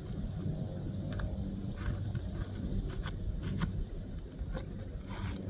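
Short, irregular scrapes and clicks of a nail-pulling tool worked under asphalt roof shingles to lift out the nails, over a steady low rumble.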